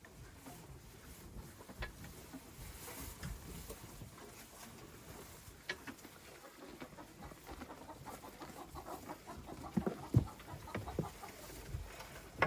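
Chickens clucking over a steady outdoor hiss, with scattered light knocks and a few louder thumps about ten seconds in.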